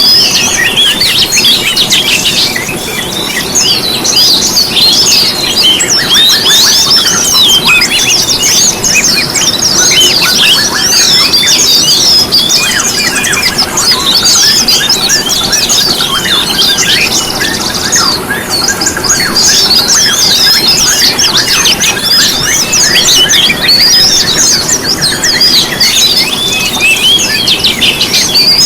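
Dense chorus of many small songbirds chirping and trilling at once, quick high notes overlapping without a break, over a steady noise beneath.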